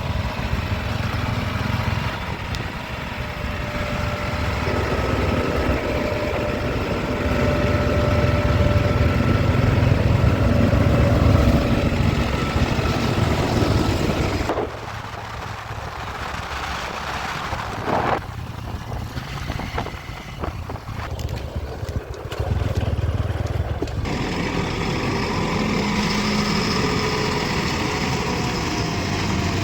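Diesel engines of a JCB 3DX backhoe loader and the tractors it is loading, running continuously at the work site. The sound gets louder for a few seconds about a third of the way in, then thins out for around ten seconds before the full engine sound returns.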